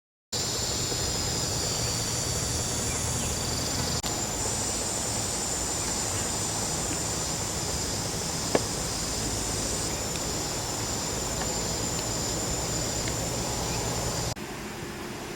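Forest ambience: insects trilling in a steady high pitch over a steady broad hiss with a low hum beneath. Near the end the sound cuts to a quieter version of the ambience.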